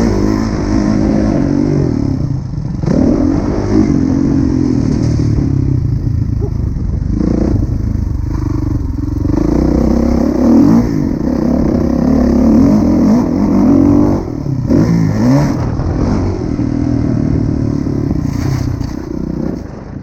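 Kawasaki KX450F motocross bike's single-cylinder four-stroke engine revving hard, its pitch rising and falling repeatedly as the throttle opens and closes, with sharp drops around three, eight and fifteen seconds in.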